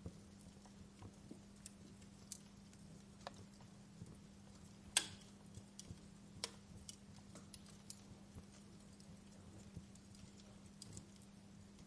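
Wood fire in a fireplace crackling: scattered sharp pops and snaps at irregular intervals, the loudest crack about five seconds in, over a faint steady low hum.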